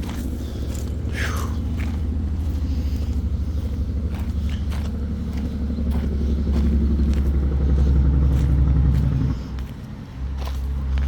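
Low rumble of distant heavy road traffic, such as a tractor-trailer, carrying through the woods. It swells over several seconds, dips briefly about nine and a half seconds in, then comes back. Scattered light clicks of footsteps on the trail sound above it.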